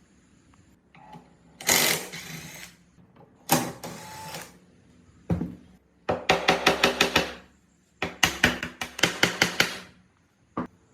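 Hand work on metal: several bursts of rapid back-and-forth scraping strokes, about seven a second, in runs of a second or so, with a single sharp click near the end.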